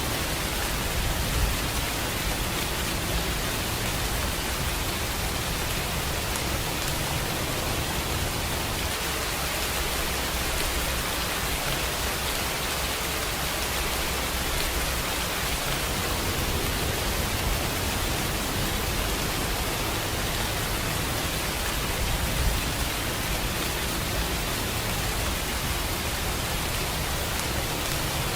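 Steady rainfall: an even hiss of rain falling, with a faint low rumble underneath.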